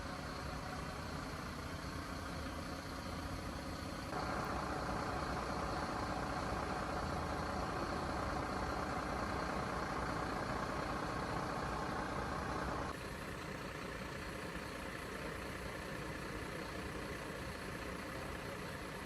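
A vehicle engine idling steadily, with a louder stretch in the middle that starts and stops abruptly.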